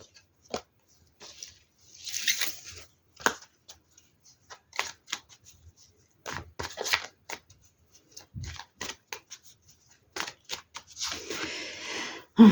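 Tarot cards being handled and shuffled: scattered light taps and clicks of cards, with a brief swish about two seconds in and a longer shuffle near the end.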